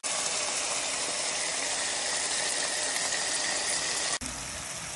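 Chicken strips frying in hot oil in a wok: a steady crackling sizzle that drops abruptly to a quieter sizzle about four seconds in.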